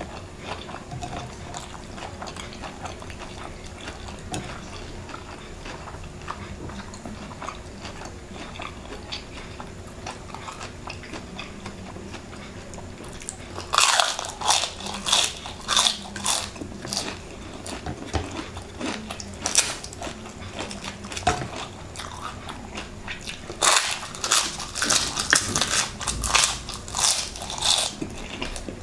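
Bites into crispy deep-fried chicken skin, chewed close to the microphone. Quiet chewing at first, then loud, sharp crunching starts about halfway through and comes again in a second run near the end.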